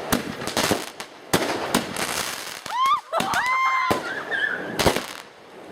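Fireworks going off in quick succession: a rapid series of sharp bangs, about ten in under six seconds, with crackling between them.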